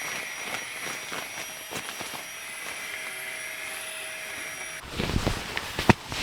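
Steady hiss of rain. About five seconds in it gives way to rustling and clattering as gear is handled, with one sharp knock.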